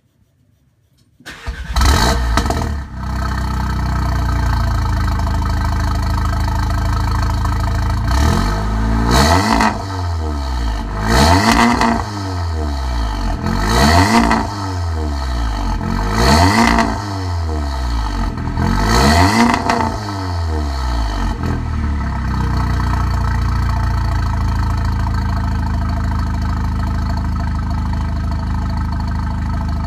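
Car engine breathing through a VWR cat-back exhaust: it starts about a second and a half in and settles to an idle, then is revved five times, about one rev every two and a half seconds, before dropping back to a steady idle.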